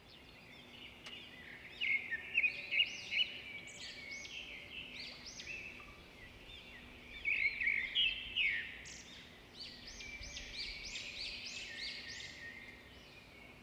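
Birds chirping: quick runs of short, high, arching calls, loudest in bursts about two and eight seconds in.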